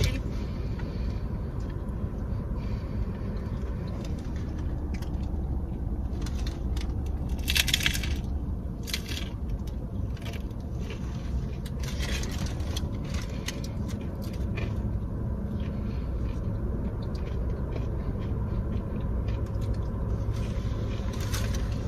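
A crunchy hard taco shell cracking as it is bitten and chewed, in short crackles every few seconds. Under it is the steady low hum of the car's air conditioning.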